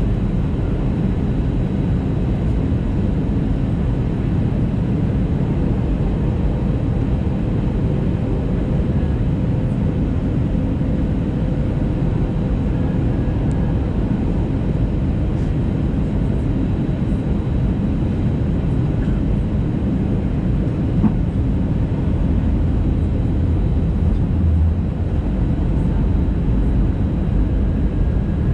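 Steady low rumble of airflow and engines heard inside the cabin of an Airbus A320neo airliner during its descent to land, with a faint steady hum underneath.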